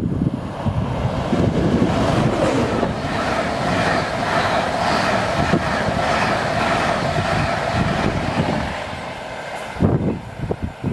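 InterCity 225 electric train, a Class 91 locomotive hauling Mark 4 coaches, passing close by at speed: a loud, steady rush of wheels on rail and air that fades about nine seconds in. Wind buffets the microphone near the end.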